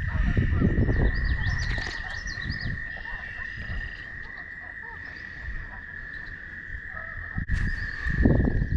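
Spring woodland ambience: a steady, high-pitched chorus of calling animals, with bird chirps over it in the first few seconds. Low rumbling noise sounds at the start and again near the end, and a single sharp click comes about seven and a half seconds in.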